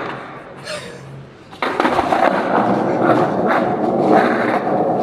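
Skateboard wheels rolling loudly over pavement, beginning about a second and a half in, with a few sharp clacks from the board.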